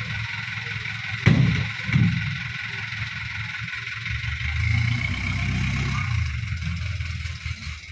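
Hino Dutro dump truck's diesel engine running, with two heavy thumps less than a second apart about a second in. The engine then runs harder for a couple of seconds before easing off.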